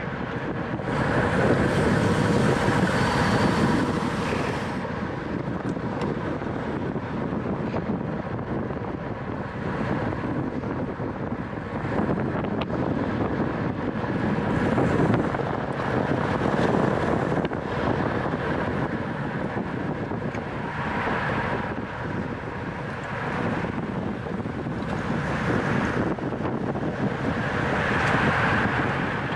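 Wind rushing over the microphone of a camera on a racing bicycle at speed, a steady rushing noise that swells and fades every few seconds.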